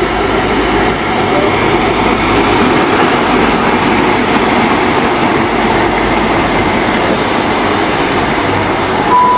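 A train moving through the station close by, a steady loud noise of engine and wheels. Near the end comes a short two-note falling chime.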